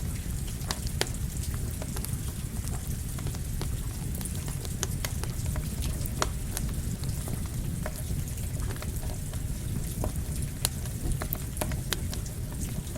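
Campfire crackling with irregular sharp pops, mixed with steady rain and a low rumble.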